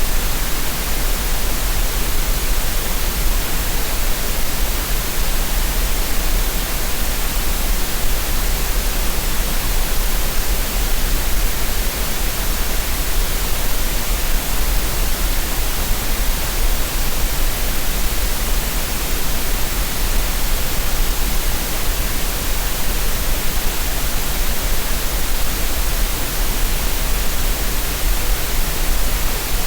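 Green noise: a steady, unchanging synthetic hiss spread across the whole range, with a deep rumble at the very bottom.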